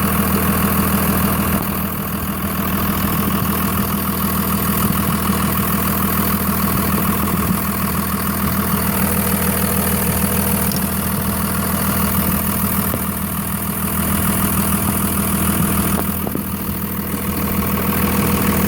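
Cummins diesel engine idling steadily. The engine has a top-end knock in cylinder number 4, hard to hear by ear, which the owner fears is a piston pin.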